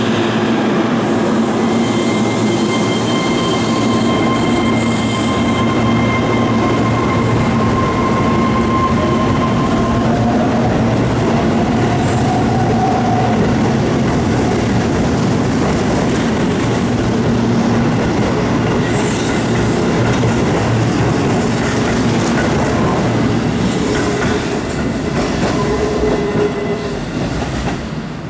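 Keihan electric train moving along the platform at close range: rail and wheel noise with steady motor tones and a rising whine about halfway through, dying away near the end.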